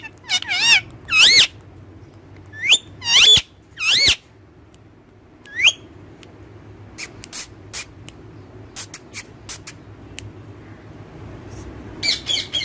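Pet parrot giving a series of short, shrill screeching calls that sweep up and down in pitch, in clusters over the first few seconds and again near the end. Between the calls come a scatter of sharp clicks.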